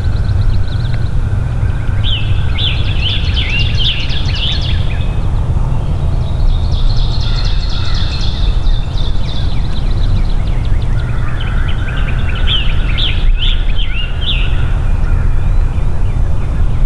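A songbird singing in three short bursts of quick chirping notes over a loud, steady low rumble.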